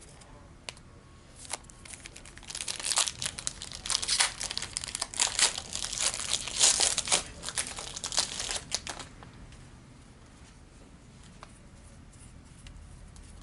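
A pack of trading cards being torn open, its wrapper crinkling in a dense crackle from about two and a half seconds in until about nine seconds, after a few light clicks.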